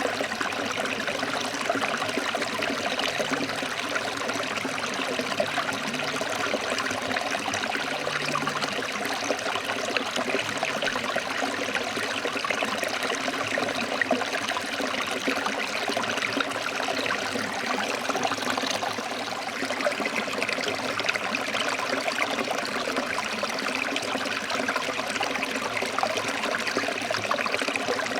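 Forest stream flowing over rocks: a steady, even rush of water with trickling.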